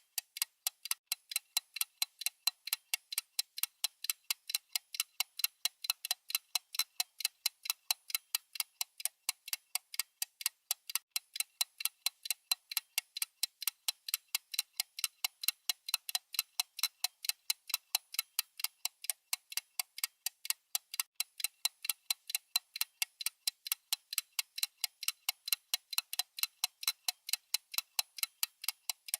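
Ticking sound effect of a countdown timer: sharp, evenly spaced high clicks, several a second, at an even level.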